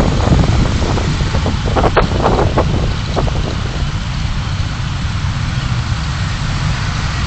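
Car driving, heard through a dashcam: a steady low rumble of road and engine with wind noise, and a few short knocks in the first three seconds.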